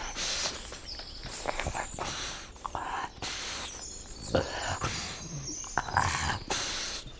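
Dogs barking: a run of short, separate barks.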